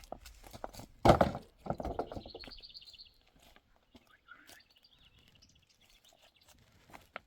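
A small bird singing high, thin warbling trills. A loud, harsh, short sound comes about a second in.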